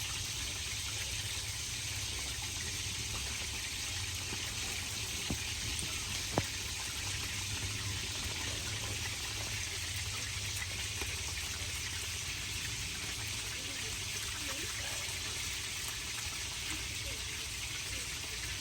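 Steady heavy rain hissing without a break, with a single sharp click about six seconds in.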